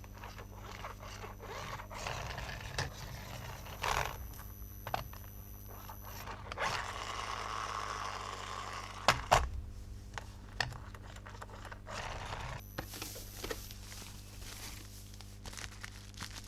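Hands handling toy packaging and plastic parts: scattered taps and scrapes, a stretch of rustling about halfway through, then two sharp clicks.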